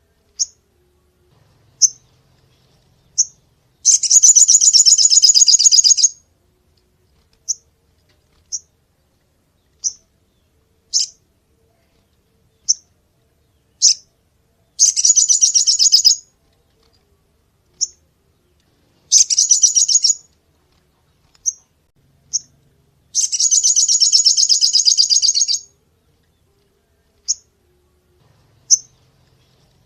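Sogon songbird singing: sharp, high single chirps every second or so, broken four times by loud, rapid trilled bursts lasting about two seconds each.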